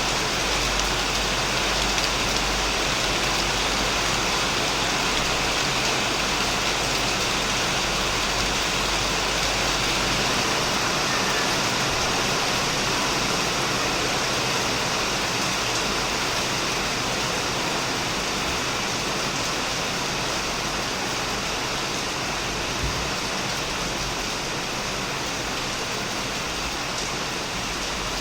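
Heavy rain falling steadily on a shed roof and plants, a dense, even hiss. A low rumble underneath fades out about ten seconds in.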